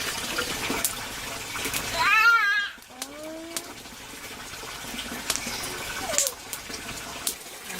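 Water running and splashing, with scattered clicks and knocks. About two seconds in comes a short, loud, high, wavering cry.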